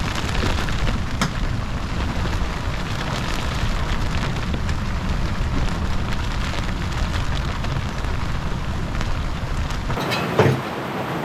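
Storm wind buffeting the microphone as a heavy low rumble, with rain pattering steadily across it, in gusts of about 22 to 29 knots. Near the end the rumble drops away abruptly.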